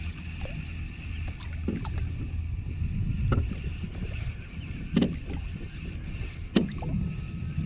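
Kayak on the water: four short knocks with splashes, spaced about a second and a half apart like paddle strokes, over a steady low rumble.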